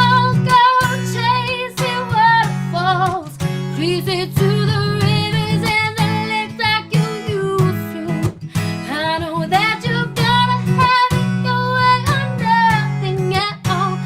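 Strummed acoustic guitar with a woman singing a wavering melody over it.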